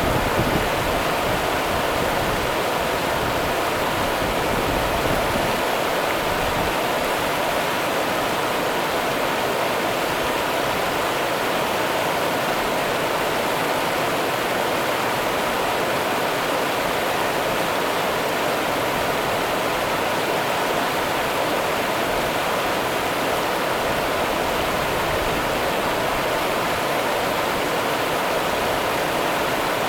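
Running water of the Rio Grande river: a steady, even rushing that does not change.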